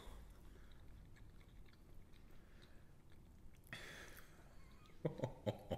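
A person chewing a mouthful of raw fish, with soft mouth sounds and small clicks. There is a breath about four seconds in and a few short vocal sounds near the end.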